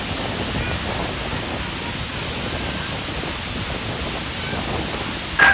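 Steady rush of falling or fast-flowing water, an even hiss without pauses.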